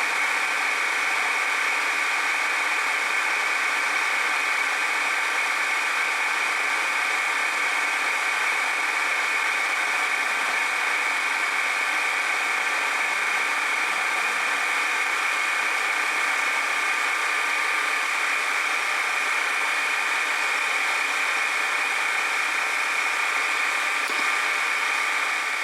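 Milling machine spindle running steadily with a high-pitched whine while its cutter cuts a gear tooth.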